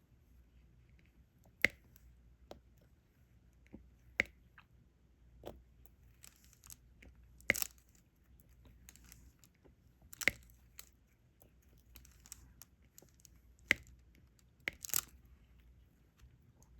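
Sharp, irregularly spaced clicks and taps of diamond painting: the drill pen pressing resin drills onto the sticky canvas, with faint rustling between the taps.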